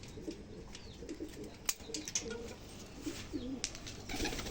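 Domestic pigeons cooing softly and repeatedly, with a couple of sharp clicks about two and three and a half seconds in.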